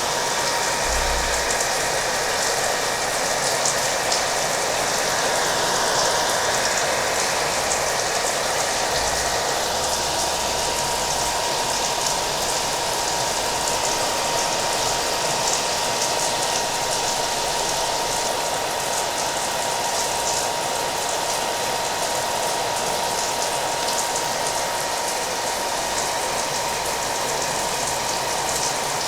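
Hair dryer running steadily with a thin, constant whine, mixed with the even hiss and crackle of falling rain.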